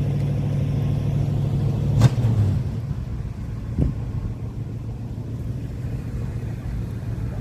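A car engine idling with a steady low hum. A sharp knock comes about two seconds in, after which the hum drops back, and a smaller knock follows near four seconds.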